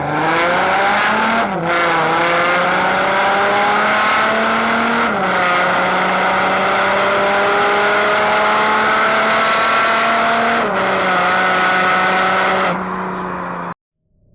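Straight-piped Audi A5 3.0 TDI V6 diesel, running with no silencers, accelerating hard through the gears. The engine note climbs, drops briefly at each of three upshifts and climbs again more slowly, then cuts off near the end.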